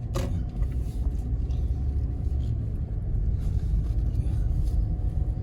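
Steady low rumble of road and engine noise inside a moving car, with a brief click at the very start.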